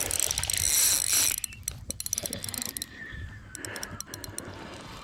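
Fishing reel's drag buzzing as a big carp on 4-pound test line runs and pulls line off the spool. The fast buzz eases after about a second, with a short run of slower separate clicks later.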